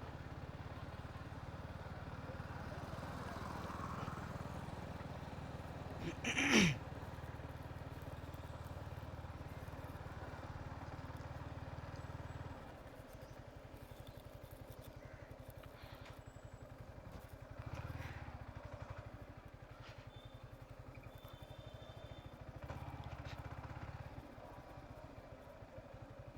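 Motorcycle engine running faintly as a low steady hum that drops away about halfway through. About six and a half seconds in there is one brief, loud sound that falls quickly in pitch.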